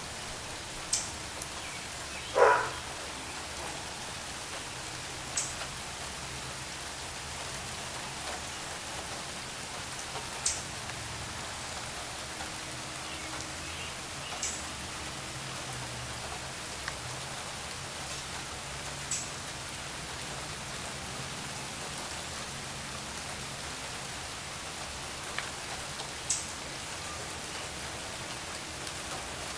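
Steady rain falling on wet pavement and puddles, an even hiss. It is broken by a few sharp high ticks every few seconds and one louder tap about two and a half seconds in.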